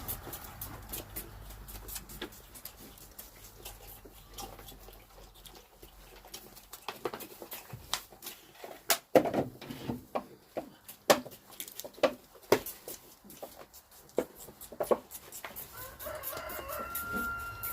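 Baby goats feeding from bottles: a run of sharp wet clicks and smacks, loudest in the middle, with chickens clucking in the background. Near the end there is a short pitched call, likely a kid bleating.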